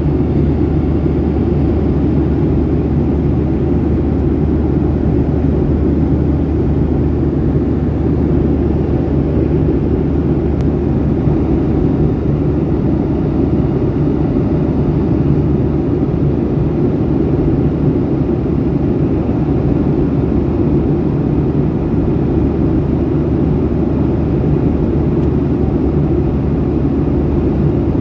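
Jet airliner cabin noise: the engines and airflow of a Boeing 737 heard from inside the cabin as a steady low rumble with a constant hum.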